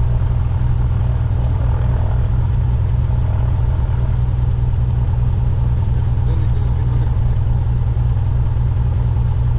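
Cessna 172's piston engine and propeller running at a steady, even drone, with no change in pitch.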